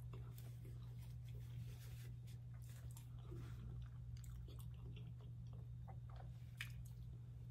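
A person chewing a mouthful of baked penne pasta, with scattered soft mouth clicks, over a steady low hum.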